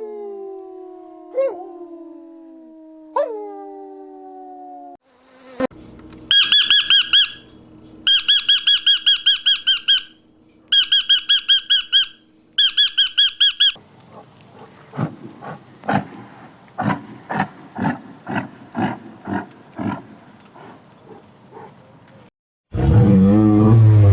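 A string of animal calls: a long falling howl that fades out over the first few seconds, then four runs of rapid high chirping, then a series of irregular clicking calls, and near the end a deep roar begins.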